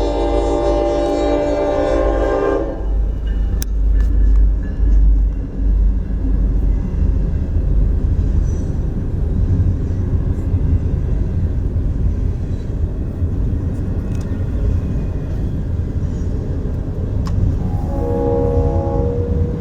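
Florida East Coast Railway train horn sounding a long chord, followed by the steady low rumble of the train running past on the rails. Near the end the horn sounds again, briefly and lower in pitch.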